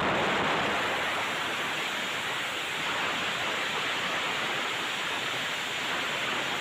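A steady, even rushing hiss with no engine note in it, starting and stopping abruptly.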